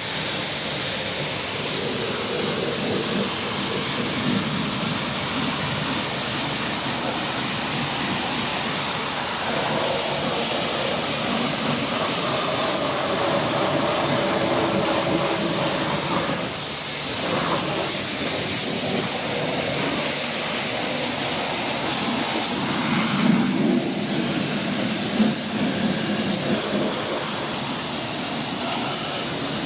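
High-pressure water jet spraying and splashing over a car's engine bay during an engine wash, a steady hiss that starts suddenly, with a few brief louder splashes after about 23 seconds.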